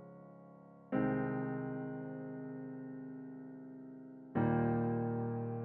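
Electric piano playing slow held chords: a new chord is struck about a second in and another near the end, each ringing on and slowly fading.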